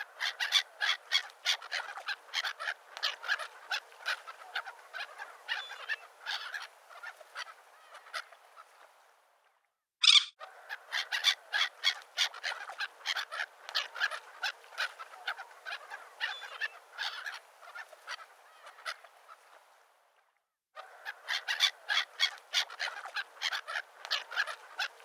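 A flock of birds calling, a dense fast chatter of honking calls in three stretches that fade out and break off twice, with one loud high call about ten seconds in.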